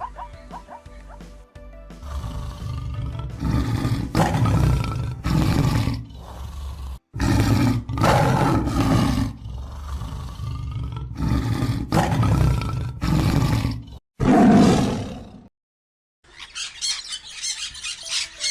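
A large animal calls loudly over background music: about ten rough, low-pitched calls grouped in twos and threes. Near the end, after a short silence, a quick run of high squeaks begins.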